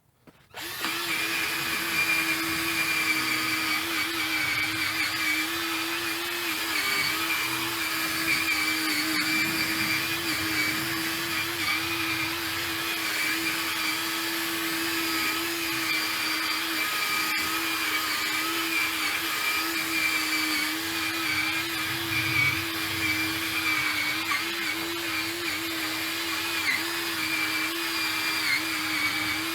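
Inexpensive battery-powered cordless drill running steadily with a polishing pad, buffing metal polish into a hazy plastic headlight lens. It starts about half a second in, its hum wavering slightly in pitch as the pad is worked over the lens.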